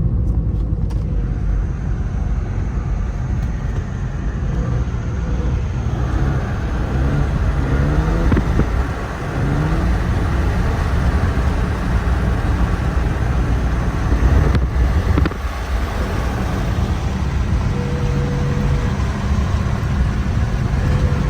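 Car engine and exhaust while driving, the engine pitch climbing as it accelerates partway through, with a held droning tone near the end. The exhaust has deer debris lodged under it from running over a dead deer, and the driver fears something is broken.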